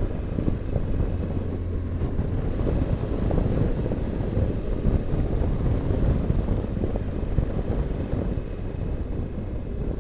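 Motorcycle on the move: wind buffeting the microphone over the engine and road noise of a BMW R1200GS Adventure, steady throughout.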